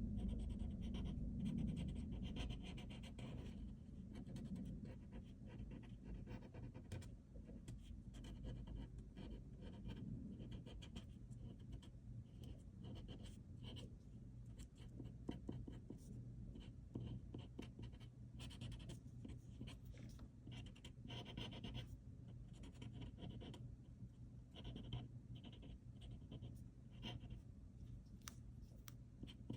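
Pen strokes scratching on paper, coming in short irregular strokes, over a faint low steady hum.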